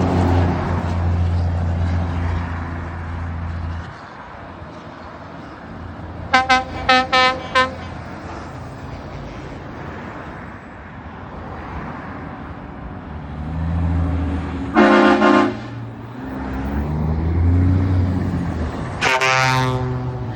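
Lorries driving past with their engines running, sounding horns: a quick run of about five short toots a third of the way in, one longer blast a little past the middle, and a horn blast falling in pitch near the end.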